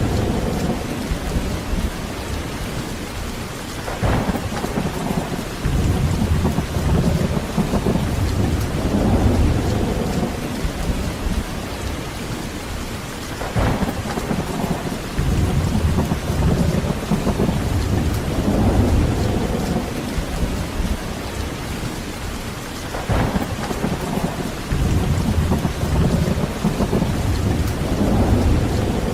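Heavy rain falling steadily, with rolling thunder. Three low rumbles swell and fade about every ten seconds, each opening with a sharper crack.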